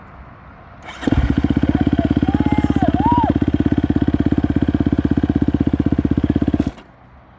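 Motorcycle engine set going with the push-button electric starter, about a second in. It makes a rapid, very even pulsing for about five and a half seconds, then cuts off suddenly.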